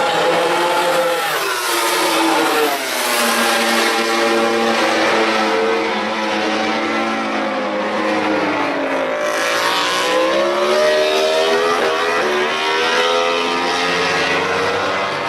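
MotoGP racing motorcycle engines running at high revs, their engine note rising and falling with more than one engine heard at once. About nine seconds in, one note drops sharply, then climbs again.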